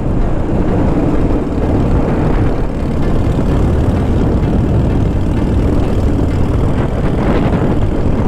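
Harley-Davidson motorcycle under way at steady speed: a constant low engine rumble mixed with wind noise on the microphone.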